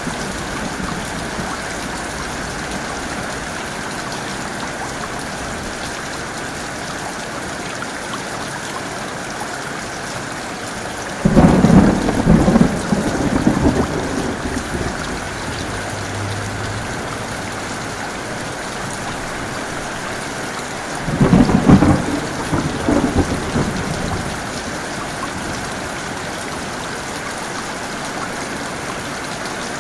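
Heavy rain falling steadily, with two sharp thunderclaps that break into rumbling, the first about a third of the way in and the second about ten seconds later, each dying away over a few seconds.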